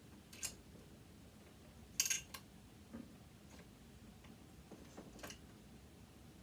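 A few separate light clicks and taps of small metal parts and tools being handled while a sewing machine motor is dismantled. The loudest is a double tap about two seconds in.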